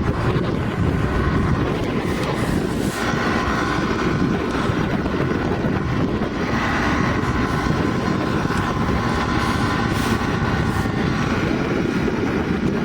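Small boat's motor running steadily under way, with wind noise on the microphone.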